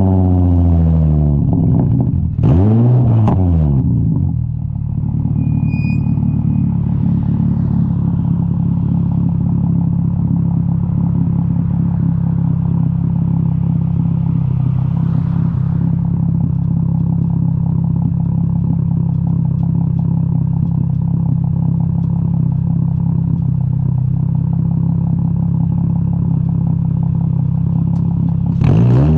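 Straight-piped Infiniti G35 V6 exhaust: the revs fall back at the start, blip up and down once about two to three seconds in, then settle into a steady idle.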